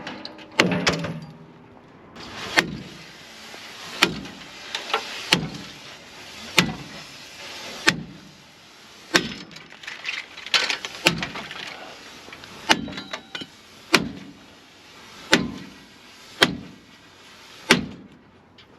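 Hammer blows on steel at a steady pace, about one every second and a quarter, each strike ringing briefly.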